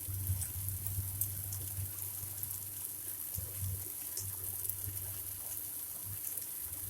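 Water running in a steady hiss as pet parrots are bathed, with a few faint ticks and an on-and-off low rumble.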